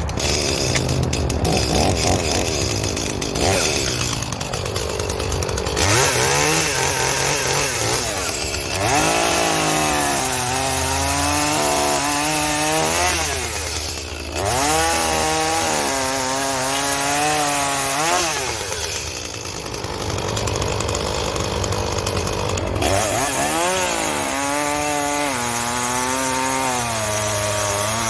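Two-stroke chainsaw running with a freshly fitted bar and chain, revved up in about four long runs that rise, hold with a wavering pitch and drop back.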